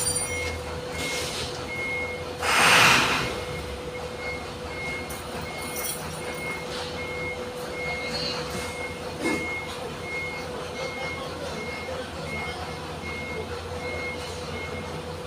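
Electronic beeper sounding one high, even beep about every 0.6 seconds, over a steady hum and a low rumble. A loud hissing burst comes about two and a half seconds in, and there is a light knock near the middle.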